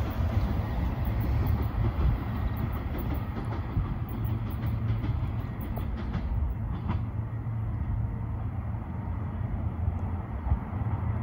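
ES104 'Finist' electric train running past on the line: a steady rumble of wheels on rail with some clickety-clack. The higher part of the noise dies away over the second half as the train draws off.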